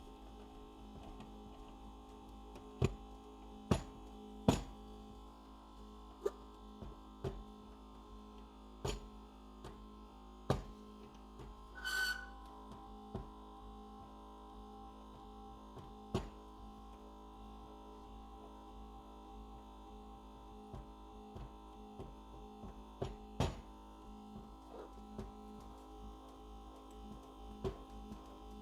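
Steady hum of an LCD screen separator with its vacuum running, broken by scattered sharp clicks and one brief squeak about twelve seconds in, as a thin cutting wire saws through a phone screen's outer glass and its adhesive.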